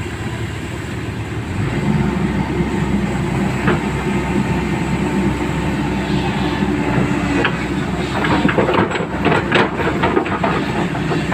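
Backhoe engine running, getting louder about a second and a half in, with a cluster of metallic clanks and rattles near the end.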